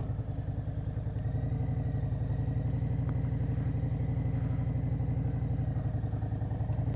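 Harley-Davidson Road Glide's Milwaukee-Eight V-twin running steadily with a low, pulsing beat.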